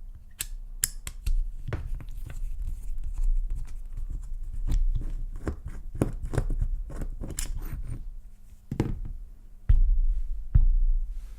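A screwdriver working on a steel padlock being taken apart, making a run of irregular metal clicks, scrapes and knocks, with two louder knocks near the end.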